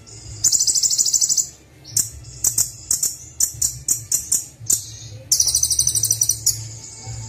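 Kolibri wulung (a sunbird) singing: a fast run of sharp, high chips at about four a second, broken twice by rapid buzzy trills. A steady low hum runs underneath.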